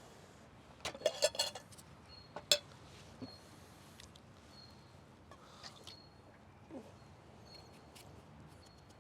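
A few sharp knocks and clinks of camp cooking gear being handled, clustered about a second in, with one more sharp click a moment later. Faint short high chirps recur every second or two over a quiet background.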